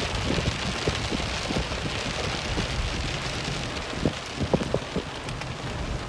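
Rain falling, heard from inside a car: a steady hiss with a few scattered dull knocks.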